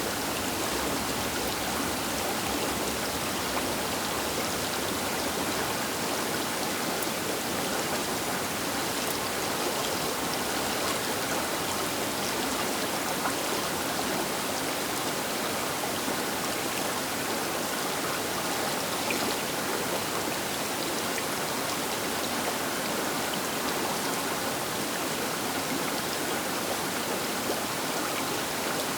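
Baker River flowing past its bank: a steady, even rush of water.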